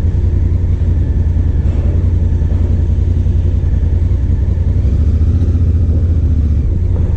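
Honda Africa Twin's parallel-twin engine running steadily with a low rumble; its note shifts slightly about two-thirds of the way through.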